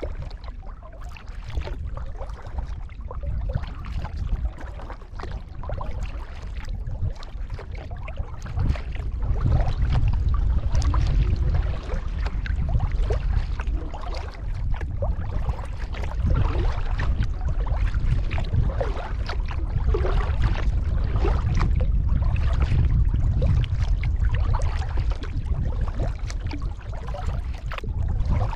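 Kayak paddle strokes splashing and dripping water, many short splashes over a steady low rumble that grows louder about nine seconds in.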